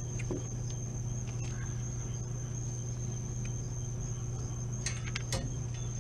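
Steady low machinery hum with a thin, steady high-pitched whine over it; a few sharp clicks or taps about five seconds in.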